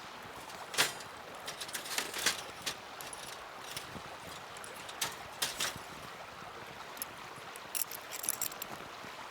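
Small wood campfire crackling: irregular sharp pops and snaps over a steady hiss, the loudest pop about a second in.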